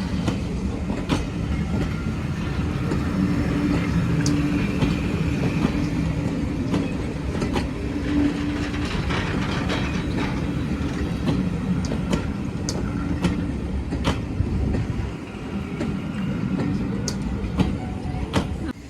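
Train running along the track: a steady low rumble, with wheels clicking over the rail joints. It eases off near the end.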